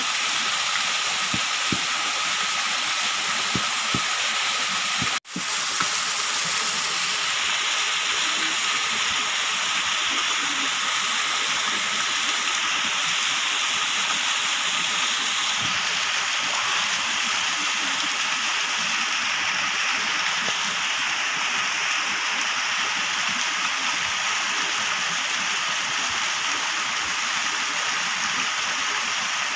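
Waterfall: a steady rush of falling water, which cuts out for an instant about five seconds in.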